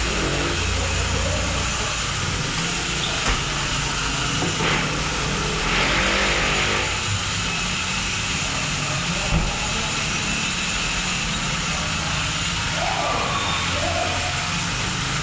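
Toyota Innova's engine idling steadily under a constant hiss, with a few short knocks and a brief louder hiss about six seconds in.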